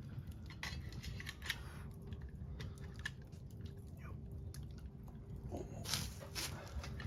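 A person chewing and crunching food close to the microphone, with scattered crisp clicks, over a steady low rumble.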